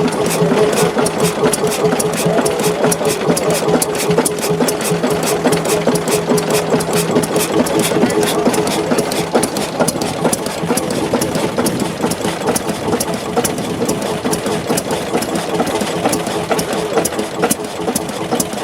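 Early-20th-century Belgian stationary engine running steadily, with a fast, even beat of sharp clicks over a steady hum.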